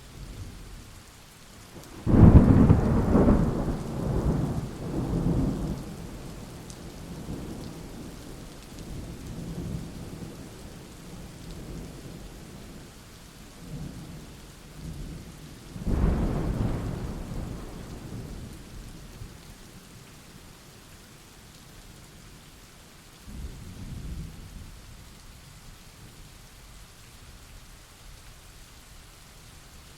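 Steady rain falling, with rolls of thunder: a loud rumble about two seconds in that dies away over several seconds, another around the middle, and a weaker one later on.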